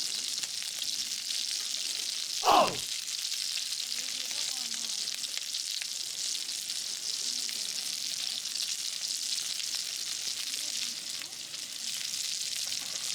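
Hamburger patties sizzling in hot fat on an iron griddle over a wood fire, a steady high hiss. About two and a half seconds in, a short louder sound drops quickly in pitch.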